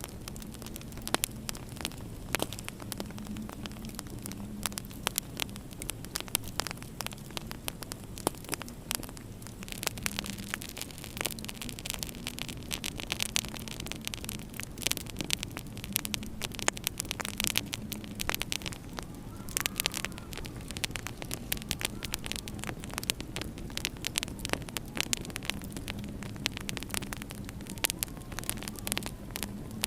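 Wood fire crackling in a fireplace, with many irregular pops and snaps over a steady low hum.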